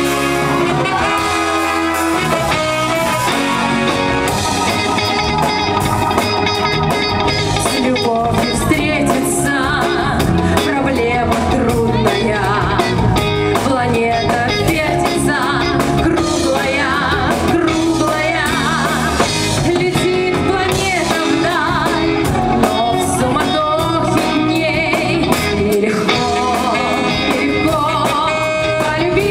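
Woman singing a festive pop song over instrumental backing with guitar and drums. The vocal line with vibrato comes in about eight seconds in, after a short instrumental opening.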